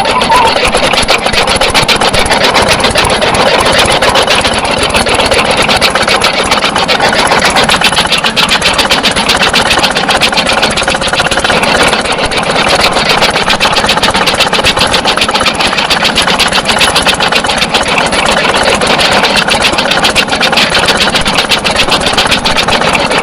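Small engine running steadily at a constant speed, its rapid, even firing strokes heard as a fast, continuous stutter.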